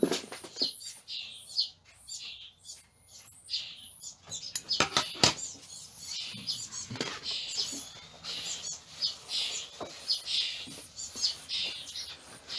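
Baby birds begging to be fed: rapid, repeated high chirps throughout, with a few sharp knocks about five seconds in.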